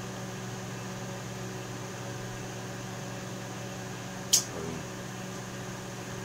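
Steady low hum with faint hiss, with one sharp click about four seconds in.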